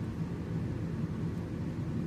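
Steady low rumble of a car engine running, heard from inside the car.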